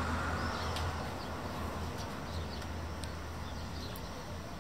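A small bird chirping now and then in short calls, over a steady low rumble of outdoor background noise.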